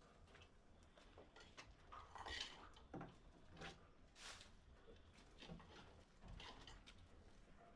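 Faint, scattered small clicks and knocks in a quiet room, a dozen or so at irregular intervals.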